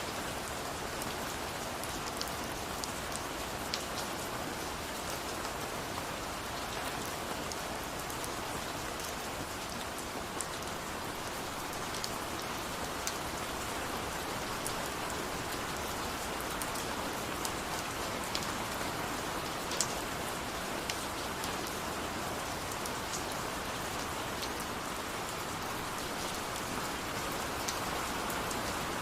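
Steady rain falling, a dense even hiss with scattered sharper drops ticking on a surface.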